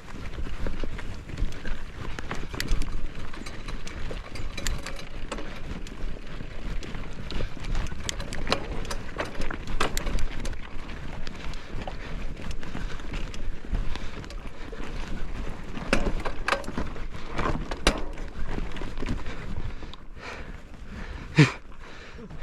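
Mountain bike clattering and rattling over a rough trail, with a steady run of irregular clicks and knocks from the frame and tyres. A short, sharp squeak near the end is the loudest moment.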